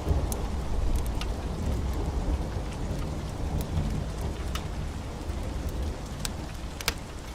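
Heavy rain falling steadily under a low thunder rumble that slowly dies away. Scattered sharp crackles come through the rain.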